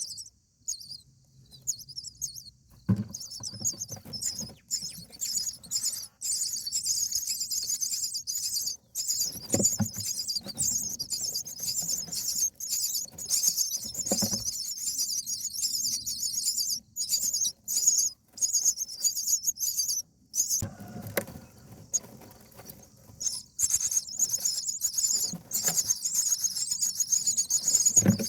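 Indian myna nestlings begging with shrill, high-pitched squealing calls, nearly continuous from about three seconds in with short breaks. A few knocks and rustles in the nest come through now and then.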